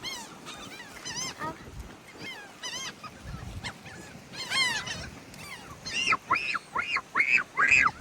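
Seagulls calling, many overlapping cries scattered through, ending in a run of about five loud, arching calls in quick succession.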